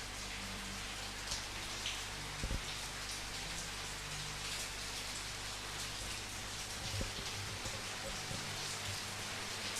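Steady rain falling, an even hiss with now and then a louder single drop striking close by, over a faint low hum.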